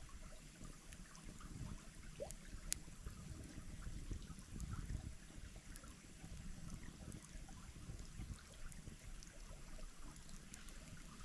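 Faint, steady trickling of a shallow stream over a low rumble, with a single sharp click a little under three seconds in.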